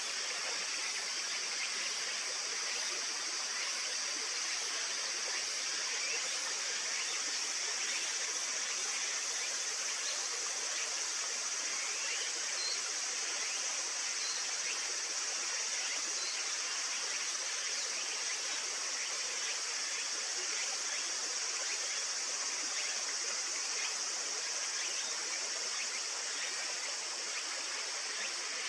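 Steady rushing of a flowing stream, even and unbroken.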